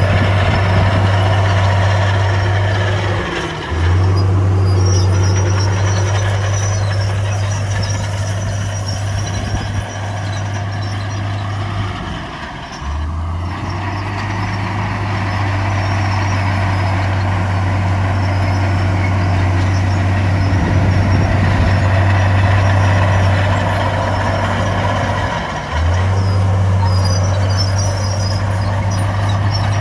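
Heavy diesel earthmoving machinery running with a steady low engine drone and mechanical noise over it, broken off briefly three times.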